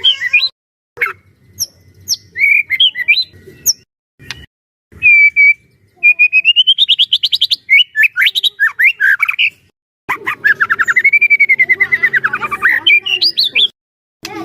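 White-rumped shama singing loudly in full song. It gives a string of varied phrases: rapid runs of sharp notes, a rising series of quick notes, and a long warbling trill that rises and falls, with short breaks between phrases.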